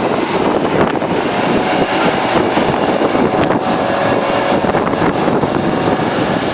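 Steady, loud engine noise with wind rushing on the microphone.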